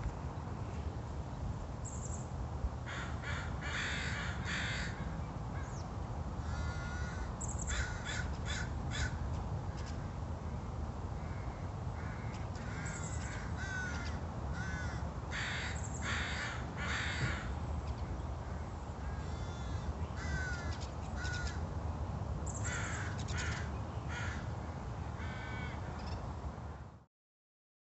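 Birds calling in short, repeated bursts over a steady low rumble of outdoor background noise, cutting off suddenly near the end.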